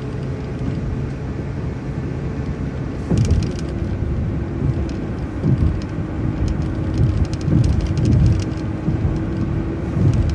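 City transit bus driving at road speed: a steady engine and road rumble with a faint whine that drops a little in pitch about three seconds in, and several thumps and rattles from bumps in the road.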